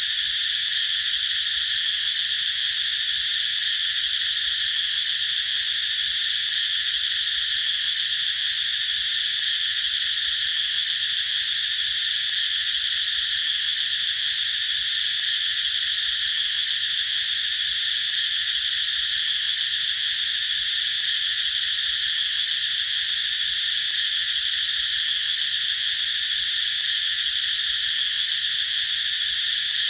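Cicadas singing in chorus: a steady, continuous high-pitched drone, strongest around a single high band, with no break.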